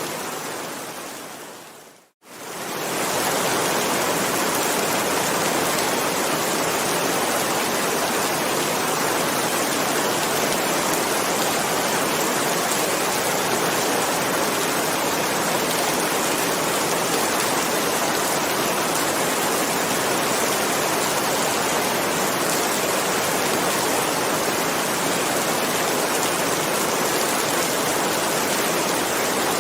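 Steady rain, an even hiss of water. About two seconds in it fades out to silence and swells straight back in, where the rain recording is looped.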